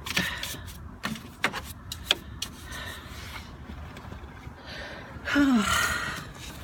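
Scattered clicks and knocks of snow being cleared from an engine bay by hand with a small broom and plastic tools. About five seconds in, a short vocal groan falls in pitch.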